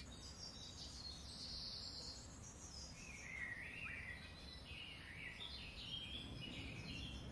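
Faint birdsong, a run of short chirps that step up and down in pitch, over a low steady outdoor background rumble.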